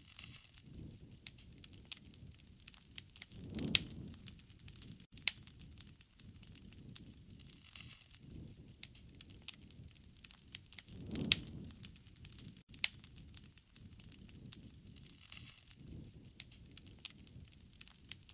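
Wood fire crackling and popping, with sharp snaps scattered through and two louder pops, one about four seconds in and one about eleven seconds in. Under the crackle a low rushing sound swells and fades every three to four seconds.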